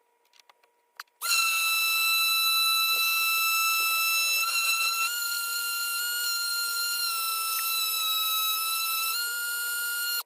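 A power tool's motor running at a steady high-pitched whine, its pitch shifting slightly as it works, starting about a second in and cutting off abruptly.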